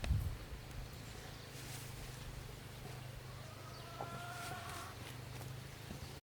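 Faint rural ambience with a steady low hum and a single drawn-out bird call, a little over a second long, starting about three seconds in.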